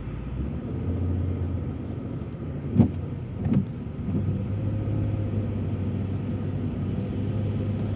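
Steady engine and road noise heard from inside a moving car, with a low hum. Two brief knocks come a little under a second apart, about three seconds in.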